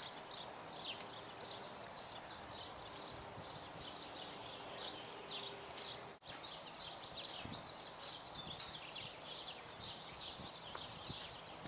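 Faint outdoor ambience filled with many small birds chirping: a dense, continuous chatter of short, high, falling notes, several a second.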